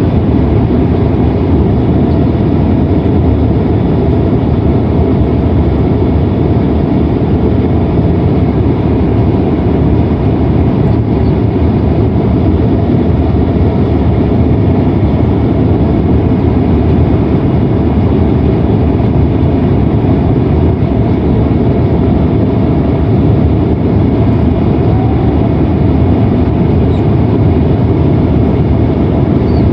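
Steady interior cabin noise of a Boeing 767-300ER airliner: a constant low roar of engines and airflow, unchanging throughout.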